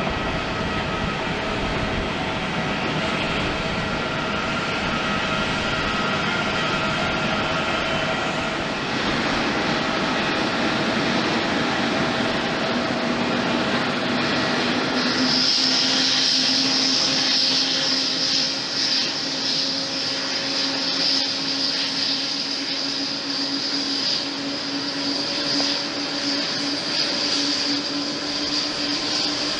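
Jet airliner engines running steadily: first a Boeing 777-300ER with its GE90 engines, then, after a cut about eight seconds in, a Boeing 787-9. From about halfway the engines carry a strong high whine over a low hum that rises slightly in pitch.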